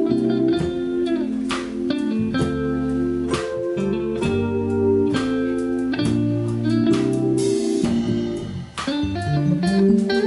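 Live instrumental music led by guitar in a bluesy style, with sustained chords, a low bass line and regular sharp percussive strikes.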